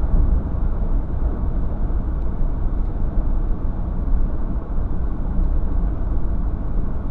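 Steady low rumble of a moving vehicle, an even noise with no distinct events.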